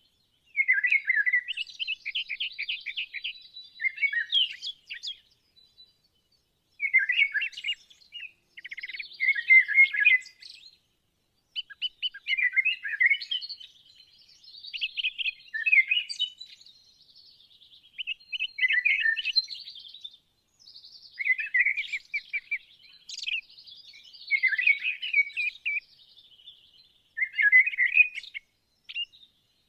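A songbird singing high-pitched phrases of rapid chirps and trills, each one to two seconds long, separated by short pauses.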